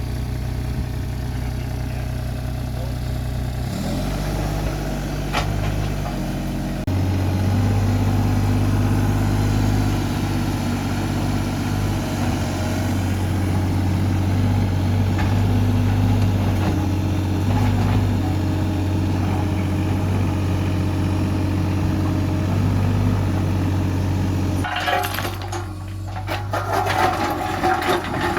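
A heavy machine's engine running steadily, with its pitch and level stepping up about four and again about seven seconds in as it is put under load. Near the end the engine drops back and a burst of clattering knocks follows.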